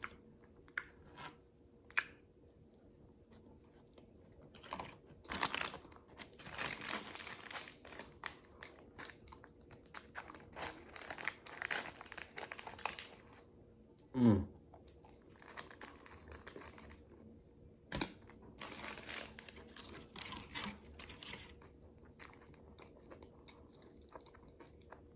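Close-miked eating: chewing and crunching in bursts of a second or two, with scattered clicks and paper wrapper crinkling. About halfway there is one short sound sweeping quickly down in pitch, the loudest moment.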